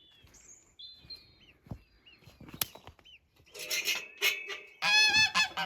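Goslings peeping in faint short chirps, then adult geese honking loudly from about three and a half seconds in: mother geese calling to goslings still stuck in the nest box.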